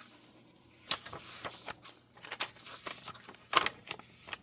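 Paper pages of a handmade journal rustling as they are handled and turned, with a few short, sharp paper crackles, the loudest near the end.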